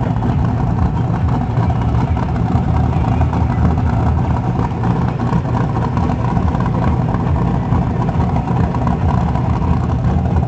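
Vehicle engine running steadily, a low, even drone with no change in pitch.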